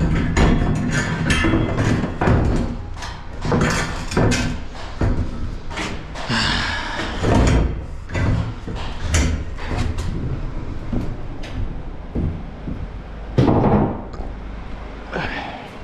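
A run of irregular knocks and bangs, sometimes several a second, over a steady low rumble, with a louder knock near the end.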